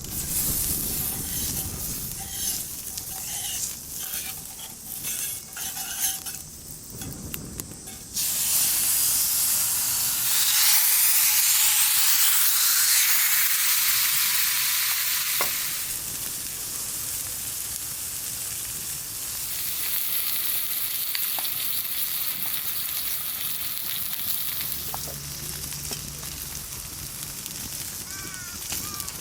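Sirloin steak frying in a hot pan over a campfire. A few light clicks and scrapes come first, then about eight seconds in a loud sizzle starts suddenly as the meat goes into the pan. The sizzle eases somewhat after several seconds but keeps going.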